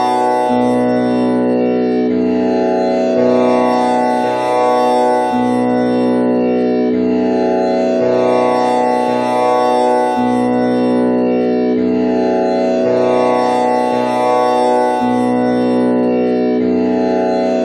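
Tanpura drone tuned to B, with the first string set to komal Ni, its strings plucked one after another in a slow cycle that repeats about every five seconds. The lowest note comes back at the start of each cycle over a continuous ringing drone.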